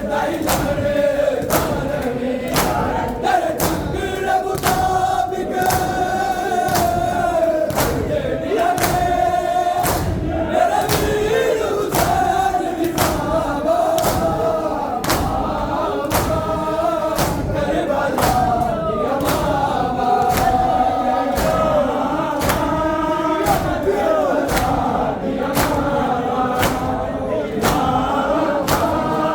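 A group of men chanting a noha in chorus, with the steady slap of matam (rhythmic chest-beating) about one and a half strikes a second.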